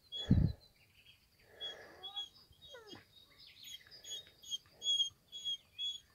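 Songbirds chirping, with short high notes repeated over and over and a few quick falling whistles. A loud low thump comes just after the start, and soft footfalls on a rocky path are heard every second or so.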